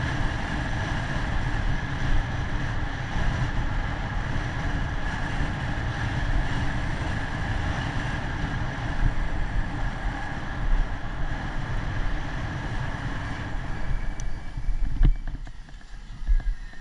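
Wind buffeting the microphone while cycling, a steady low rumble of rushing air and rolling noise that falls away suddenly near the end.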